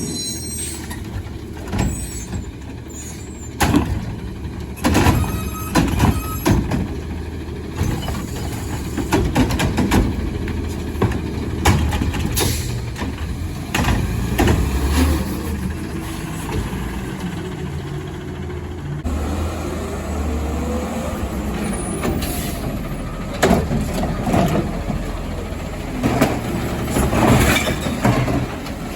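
Garbage truck running, with a steady low engine rumble and many sharp clanks and bangs throughout.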